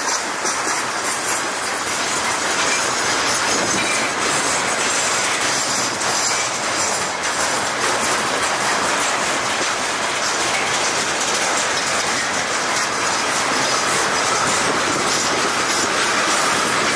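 Railway tank cars of a freight train rolling past, their wheels clattering steadily over the rails.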